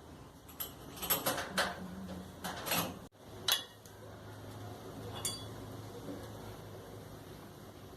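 Metal clinking and clattering of parts and tools being handled during reassembly of a clothes dryer, in a quick run of knocks over the first three seconds. After an abrupt break, a low steady hum with two sharp clicks.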